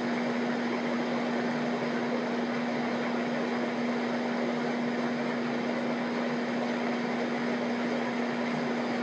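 A steady machine hum: an even hiss with one constant low tone running through it, unchanging throughout.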